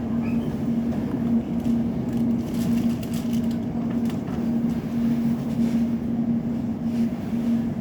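Steady running hum inside an Elizabeth line Class 345 train carriage, with a low drone that swells and fades over and over.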